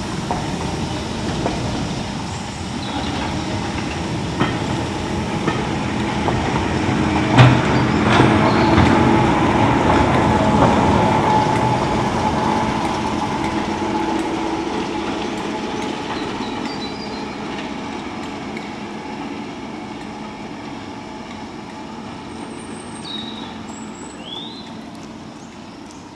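A train on a heritage railway passing by, wheels clicking over the rail joints. It grows to its loudest with a sharp knock about seven seconds in, then fades slowly away. A few bird chirps near the end.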